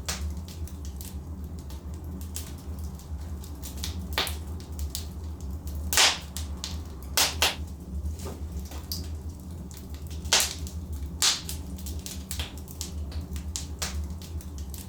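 Wood fire burning in a fireplace: a steady low rumble with irregular sharp crackles and pops from the burning logs, the loudest pops about 6, 7 and 10–11 seconds in.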